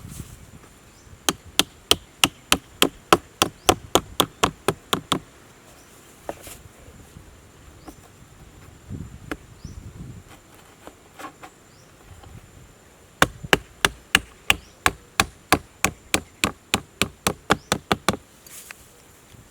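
Two runs of sharp, evenly spaced blows, about four a second, like hammering or chopping with a hand tool. The first lasts about four seconds starting a second in, and the second about five seconds starting past the middle. A steady, faint, high insect drone runs underneath.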